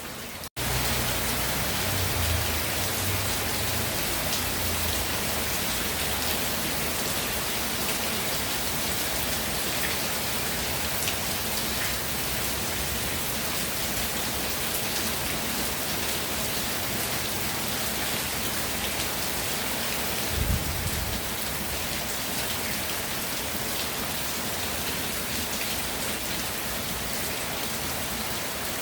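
Steady rain falling and pattering on surfaces. The sound cuts out for an instant about half a second in and comes back louder, and a brief low thump sounds about two-thirds of the way through.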